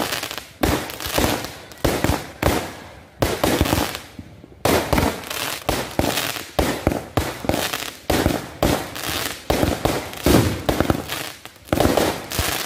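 Aerial fireworks going off in quick succession: a string of sharp bangs, one about every half second to a second, each followed by a short crackling decay, with a brief lull about three seconds in before the shots resume.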